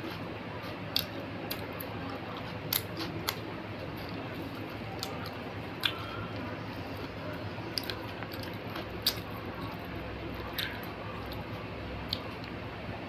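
Eating sounds: chewing and wet mouth clicks and smacks, about a dozen short sharp ones at irregular intervals, over a steady background hiss. The food is soft flatbread and chickpea curry, eaten by hand.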